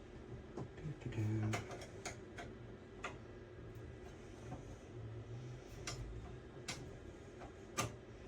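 Irregular small metallic clicks and ticks of a screwdriver working a stubborn graphics card bracket screw in a PC case, about eight of them, the loudest near the end. A brief low hum about a second in.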